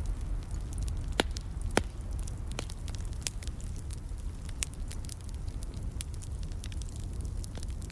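Wood fire in a fireplace crackling, with scattered sharp pops over a low steady rumble; two louder snaps come just after a second in.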